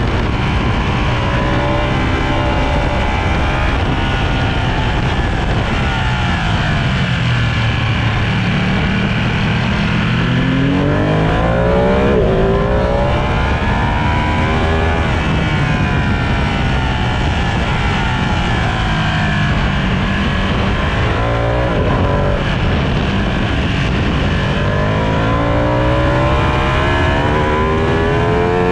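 Sport motorcycle engine at full track pace, its pitch climbing repeatedly as it accelerates and falling away as it slows for corners, over a steady rushing noise.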